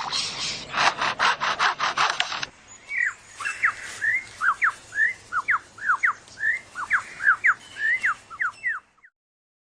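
Superb lyrebird mimicking a chainsaw: a rough rasping cut in quick bursts, ending about two and a half seconds in. Then a run of quick, clear chirping and whistled notes from a bird, rising and falling, several a second.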